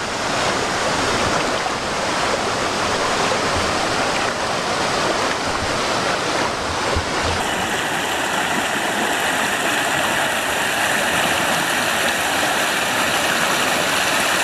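Small waterfall splashing over rocks, a steady rush of falling water that shifts slightly in tone about halfway through.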